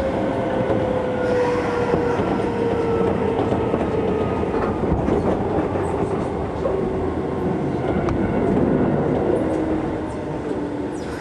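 Interior running noise of a Keisei 3400-series electric train: wheels clattering on the rails, with a whine that falls steadily in pitch as the train slows.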